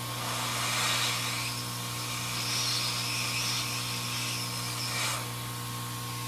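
Air blower nozzle hissing in two bursts, the longer one with a steady high whistle, over a constant electrical hum.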